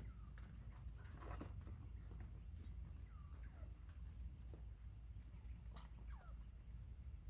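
Bobwhite quail softly peeping: a handful of short, faint calls that slide down in pitch, with a few light clicks and a low steady rumble underneath.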